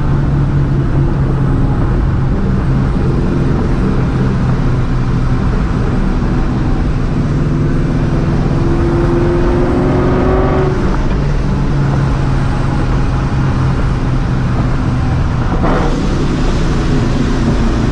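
Supercharged 2004 Mustang GT's 4.6-litre two-valve V8 running steadily under way through its aftermarket exhaust, with road noise. About eight seconds in the engine note climbs as the car accelerates, then drops away at about ten and a half seconds.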